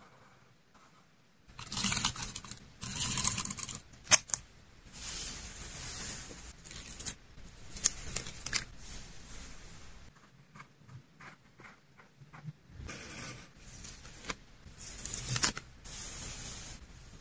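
Paper and plastic stationery being handled: irregular bursts of crinkling and rustling with a few sharp clicks and taps.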